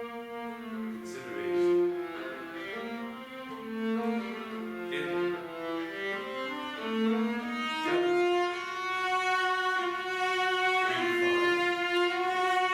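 Bowed strings, violas and violins, playing long held notes in a free improvisation; the notes shift in pitch about once a second, then from about eight seconds in a single note is held steady and a little louder.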